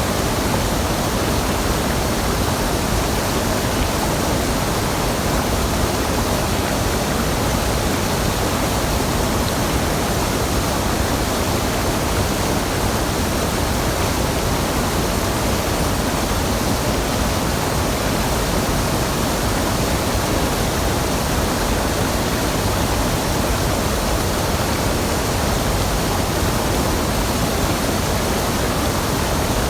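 Waterfall on a mountain stream: steady rushing and splashing of falling water, loud and unchanging.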